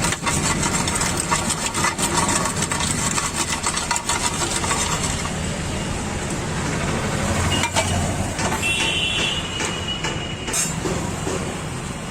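Busy street noise: vehicle engines running and passing, with a short high-pitched tone like a horn about nine seconds in.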